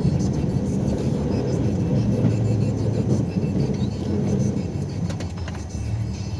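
Engine of a snow-plowing vehicle running steadily, with a few light clicks about five seconds in.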